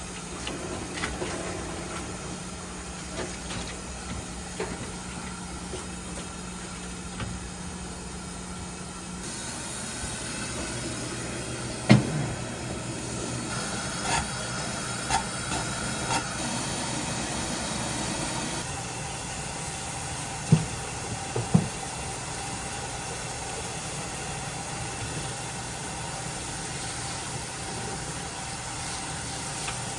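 Food-stall kitchen ambience: a steady hiss and hum, with a few sharp knocks, the loudest about twelve seconds in and two close together near twenty-one seconds.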